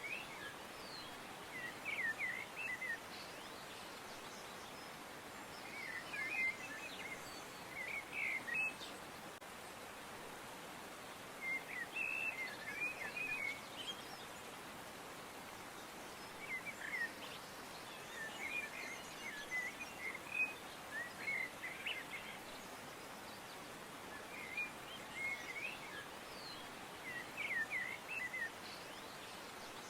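Small birds chirping in short bursts of quick twittering notes every few seconds, over a steady faint background hiss.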